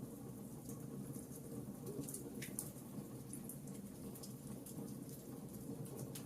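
Fireplace fire crackling softly over a low steady rumble of flames, with scattered small pops and a few sharper ones about two and a half seconds in.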